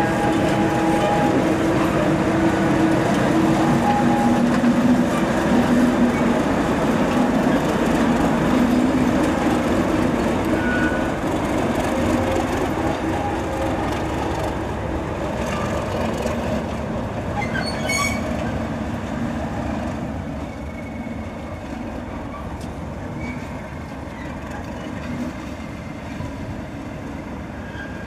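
A train running on the line, its steady noise slowly fading as it draws away, with a single sharp click about two-thirds of the way through.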